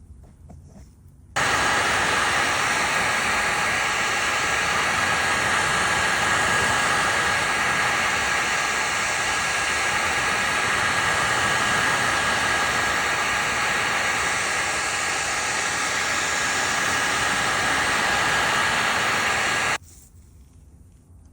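Heat gun blowing steadily with a constant whine, switched on about a second in and off near the end, heating vinyl repair filler.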